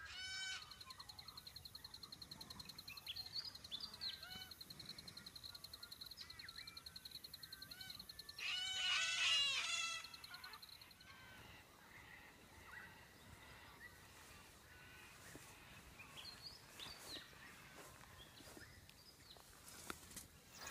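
Birds calling in the open morning air: scattered short calls, with a louder burst of harsh calls about eight and a half seconds in, over a steady high-pitched trill that stops about halfway through.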